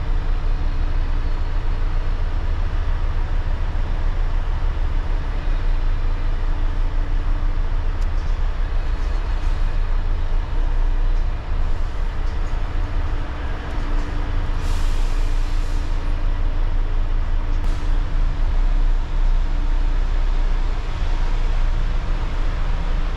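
Volvo truck's diesel engine running with a steady low rumble, with a short burst of hiss about fifteen seconds in and a click a few seconds later.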